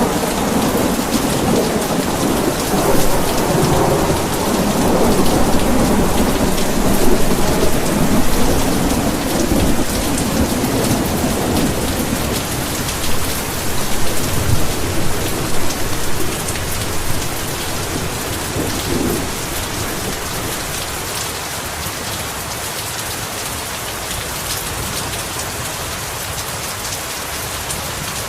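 Heavy rain falling steadily, with a long roll of thunder that is loudest in the first half, rumbles again briefly and dies away about two-thirds of the way through, leaving only the even hiss of the rain.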